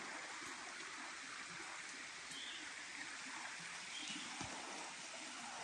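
Small forest stream flowing, a steady faint rush of water, with a few short bird chirps high above it.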